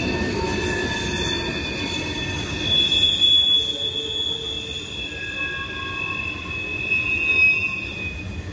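Norfolk Southern freight train rolling past with wheel squeal: several high, shifting squealing tones from the cars' wheels over a low rumble of wheels on rail.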